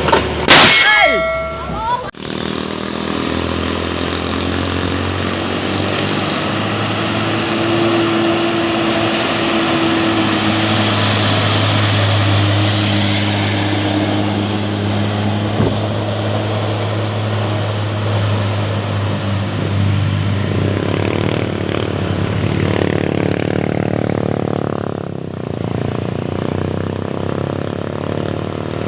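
Diesel engine of a sand-laden Hino 500 dump truck running steadily under load on a climb. There is a short loud pitched sound with gliding tones near the start.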